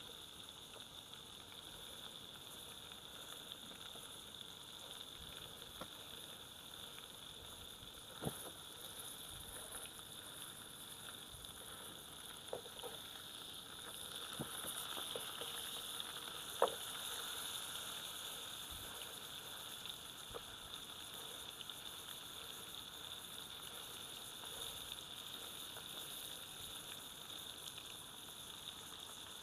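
Steak sizzling in the heat as it cooks, a steady hiss broken by a few sharp clicks or taps, the loudest about two-thirds of the way through.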